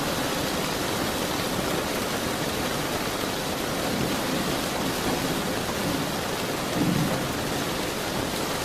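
Steady heavy rain hissing, with a low rumble of distant thunder swelling briefly about seven seconds in.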